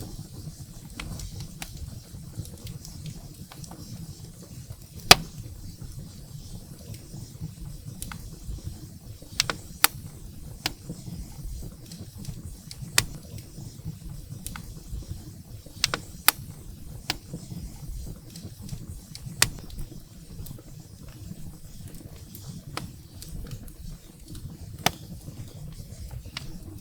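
Wood fire burning in a fireplace: a steady low rumble of flame with irregular sharp crackles and pops from the burning firewood, the loudest pop about five seconds in.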